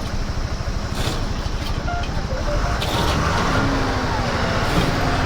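Motorcycle engine running under load as the bike is ridden up onto the road edge, its engine note growing steadier and clearer past the halfway mark.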